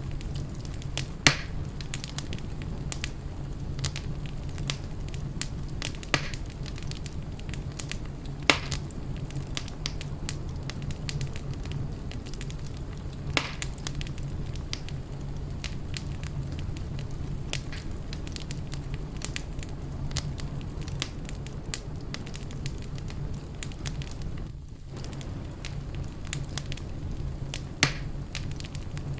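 Wood fire burning in a fireplace: steady crackling over a low rumble, with about five louder sharp pops spread through it.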